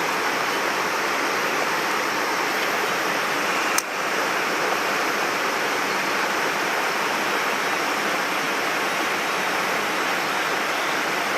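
Mountain stream water rushing steadily over rocks, a loud, even white-water noise. A single sharp click about four seconds in.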